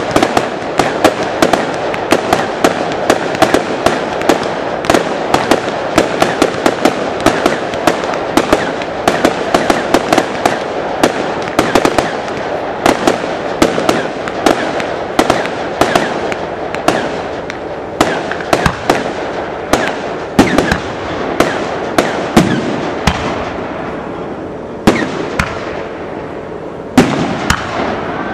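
Aerial fireworks display: a dense barrage of shell bursts and crackle, many bangs a second, thinning to a few spaced booms over the last few seconds.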